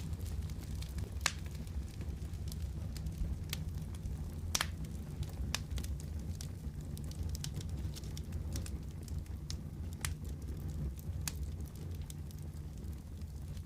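Wood fire crackling in a fireplace: a steady low rumble with sharp pops scattered every second or so, two of them standing out, about a second in and past four seconds.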